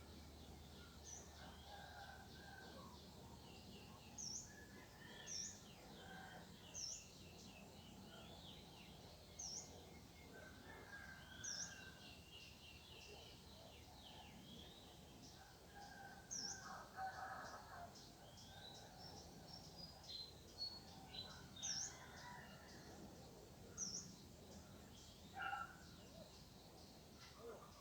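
Faint chorus of small birds chirping and calling, with one high, sharply dipping call repeated every second or two among other scattered chirps.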